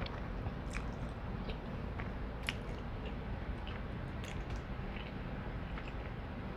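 Close-miked mouth sounds of a person eating a seafood boil: scattered wet smacks and clicks of chewing over a steady low background hum.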